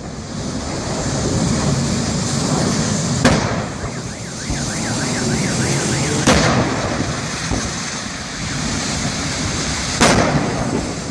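A burning truck going off in a series of explosions: three sharp bangs roughly three seconds apart, over a steady rumble. Between the first two bangs a car alarm warbles briefly.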